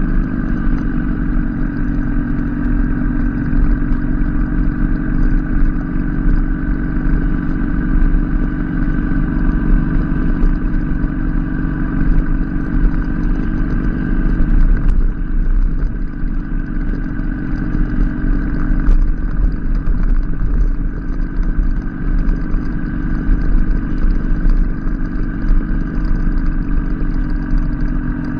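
Motorcycle engine running while riding, a steady note that drops about halfway through and picks up again a few seconds later.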